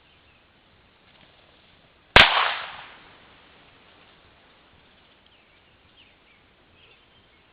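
A single sharp gunshot crack about two seconds in, fading over most of a second. In bird-dog training this is a blank gun fired as the bird flushes in front of the pointing dog.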